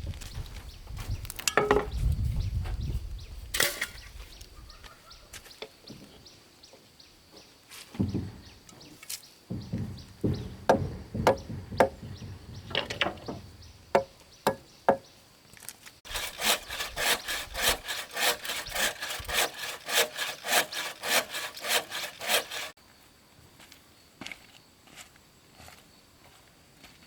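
Hand work on wood and bamboo: scattered knocks and scraping, then about six seconds of steady sawing strokes, roughly three a second, that cut off suddenly.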